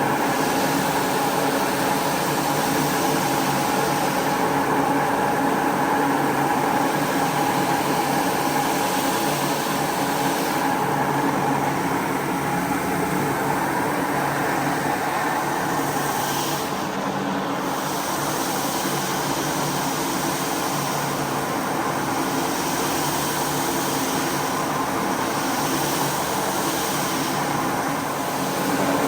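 Motor of a carpet-cleaning machine running steadily, with a constant hum of several fixed tones.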